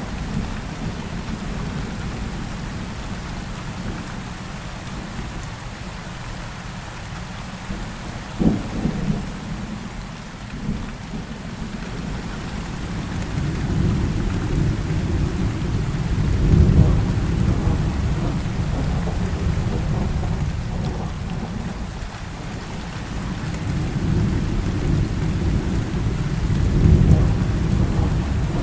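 Heavy rain falling steadily through a thunderstorm. A sharp thunderclap comes about eight seconds in, and long low rumbles of thunder swell and fade twice in the second half.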